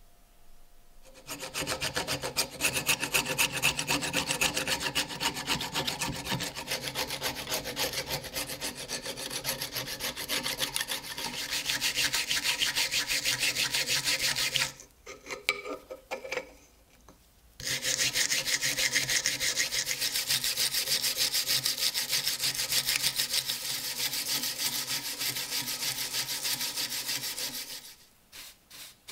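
Hand abrading, quick even back-and-forth rasping strokes, starting about a second in. It breaks off past the middle for a few separate strokes, then carries on until near the end.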